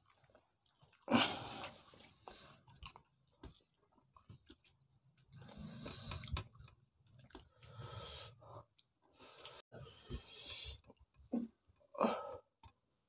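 People chewing and eating rice with fish curry by hand, with wet mouth sounds coming in irregular bursts. A louder noise stands out about a second in, and another near the end.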